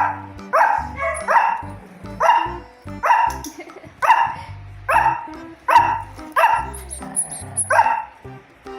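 A dog barking repeatedly and steadily, about a dozen sharp barks a little under a second apart.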